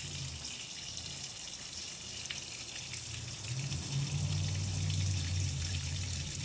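Water spraying and running down the outside of a crawfish boil pot from a hose-fed cooling ring, a steady hiss with light crackle as it cools the boil. A low rumble grows louder about halfway through.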